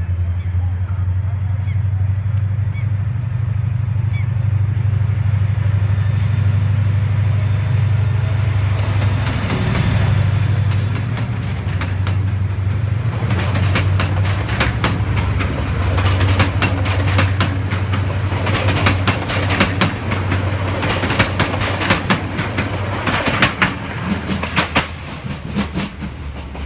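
Diesel passenger train departing: a steady low engine drone, then from about ten seconds in the coaches roll past close by, their wheels clicking and clattering over the rail joints. The sound fades as the train pulls away near the end.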